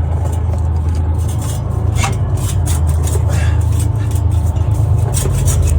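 Metal exhaust pipe being shifted and handled under a pickup, giving scattered clicks and scrapes over a steady low hum; the loudest clicks come about two seconds in and again near the end.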